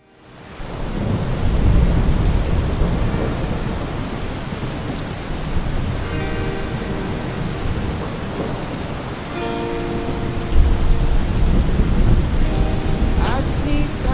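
Steady heavy rain with low rolling thunder, fading in over the first second; the thunder swells early and again near the end. Faint music notes are held under the rain in the middle.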